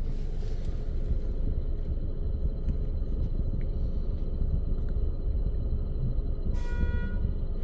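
Steady low mechanical rumble. About a second before the end, a short electronic tone with several pitches sounds once.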